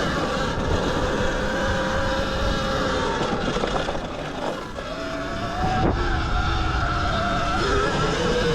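Zero XB electric dirt bike's motor whining, its pitch falling about four seconds in and climbing again as the throttle is rolled back on. Underneath is a steady rush of wind and tyre noise.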